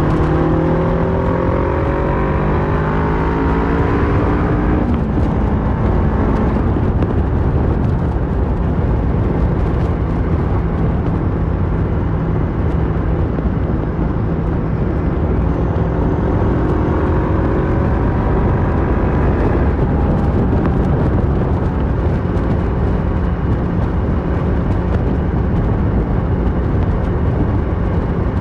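2008 Kawasaki Versys 650's parallel-twin engine through a Mivv slip-on exhaust, rising in pitch as it accelerates for the first few seconds, then dropping off about four seconds in. It pulls up again in the middle and settles to a steady cruise near the end, under heavy rushing noise from riding.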